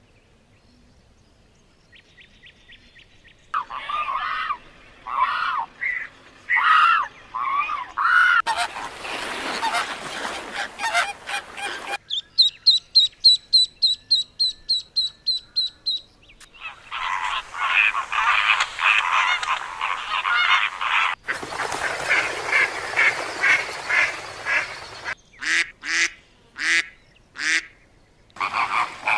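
Birds calling in several separate stretches: repeated honking calls, a run of rapid high chirps about four or five a second in the middle, then dense calling again.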